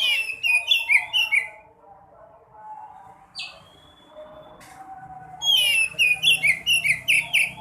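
Sekoci songbird singing two bursts of rapid, high chirping notes, one at the start and one about five seconds in, with a single short whistle between them.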